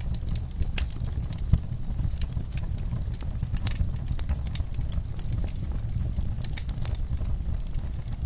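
Wood fire burning in a fireplace: a steady low rumble of flames with irregular crackles and pops, one sharper pop about a second and a half in.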